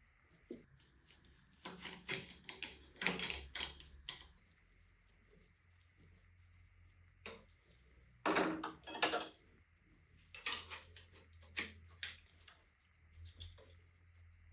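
Small metal parts and tools clinking and knocking together, handled in several short bursts.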